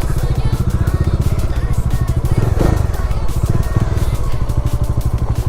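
Motorcycle engine running steadily under way, its fast, even firing pulses mixed with wind rushing over the microphone.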